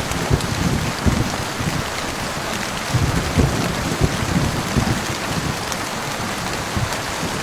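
Heavy rain falling steadily, with low rumbles of distant thunder swelling in and out: once in the first second or so, and again around three to four seconds in.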